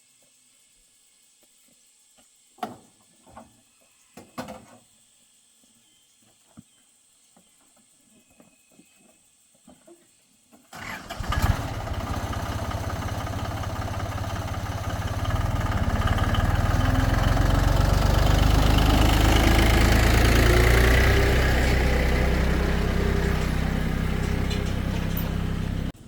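A few short knocks, then about eleven seconds in a tractor engine starts and runs steadily. It grows louder with a rising pitch as it revs up.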